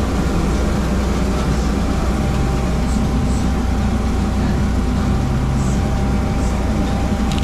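Steady low engine rumble of a vehicle, with a faint steady whine above it.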